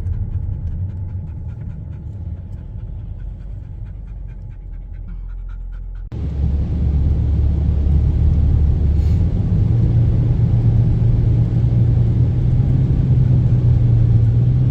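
Vehicle engine running with a steady low drone. About six seconds in it cuts abruptly to a louder drone, whose pitch steps up about three seconds later as the engine revs.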